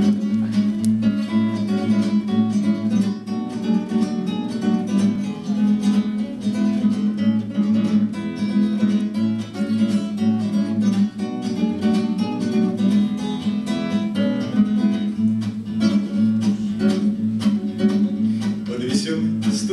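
Acoustic guitar playing a strummed instrumental introduction to a song, with a steady, brisk rhythm.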